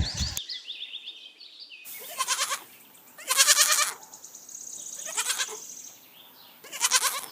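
Adult goat bleating four times, each call wavering, the second the loudest.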